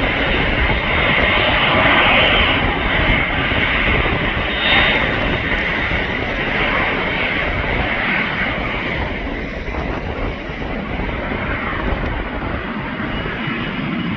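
Airplane engines running loud as an aircraft passes, a dense roar that peaks in the first few seconds and slowly fades.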